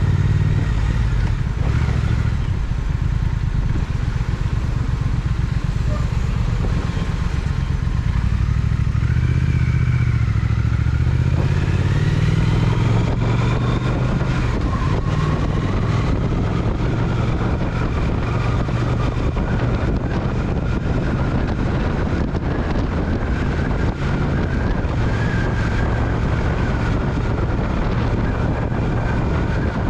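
Triumph Speed Twin parallel-twin motorcycle engine running on the move, its pitch rising and falling with the throttle about ten to fifteen seconds in, over steady road and wind noise.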